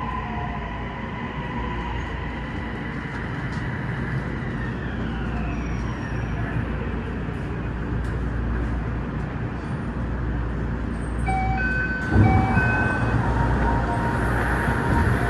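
Toei 6300-series train's rumble with a motor whine falling in pitch as it brakes into an underground station and stops. About eleven seconds in, a chime of alternating short beeps sounds, with a sharp thump soon after, followed by a steady tone and a hiss.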